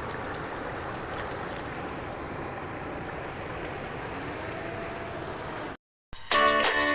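Steady rush of falling water, which cuts off abruptly about six seconds in. After a brief silence, acoustic guitar music starts near the end.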